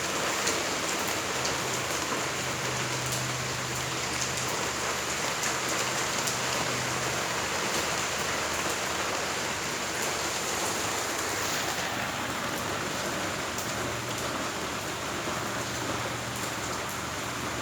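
Steady rain falling and pattering on surfaces, with a faint low hum that fades in and out.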